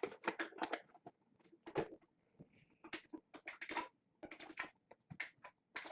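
Crinkling plastic wrap and scraping cardboard as a sealed box of trading cards is opened by hand: a run of short, irregular crackles and rustles.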